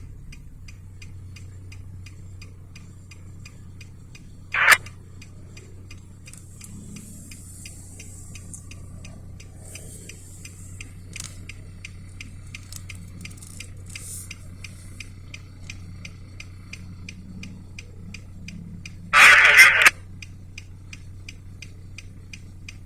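Faint, steady ticking, about three to four ticks a second, over a low hum, broken by a short loud noise about four and a half seconds in and a longer one near the end.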